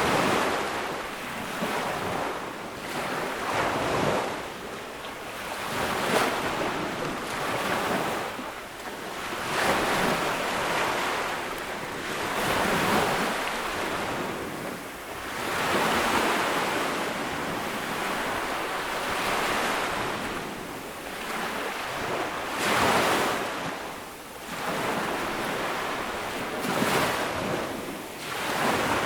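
Ocean waves breaking and washing up on a sandy beach, the surf swelling and falling back every two to four seconds.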